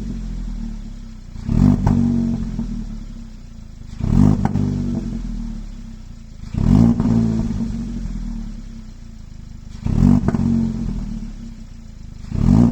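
Kia ProCeed GT's 1.6-litre turbocharged four-cylinder petrol engine, through its stock flap exhaust, revved in short blips about every two and a half seconds. Each blip rises sharply and then falls back slowly to idle.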